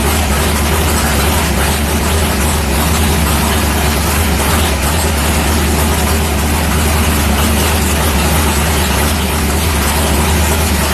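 Big-block Ford V8 in a 1964 Fairlane drag car idling steadily on a freshly rejetted Holley 1050 Dominator carburetor, warming up.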